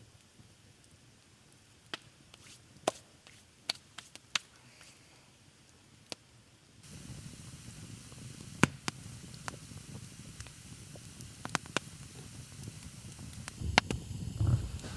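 Campfire crackling: scattered sharp snaps and pops from burning wood. About seven seconds in, a steady low rush comes in abruptly under the pops.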